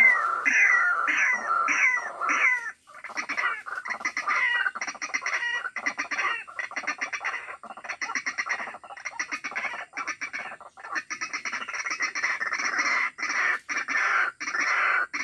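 White-breasted waterhen calling: a run of loud, downward-sliding notes, about three a second. After a short break near the three-second mark, a long run of fast, chattering notes follows.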